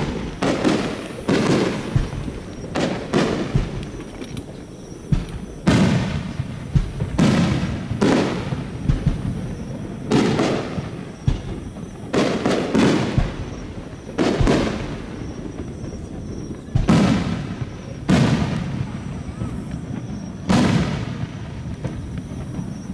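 Aerial firework shells bursting one after another, sharp booms roughly every one to two seconds, each trailing off in a rolling echo.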